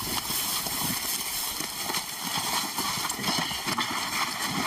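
Irregular shuffling footsteps and scuffing knocks, with brief murmured voices near the end.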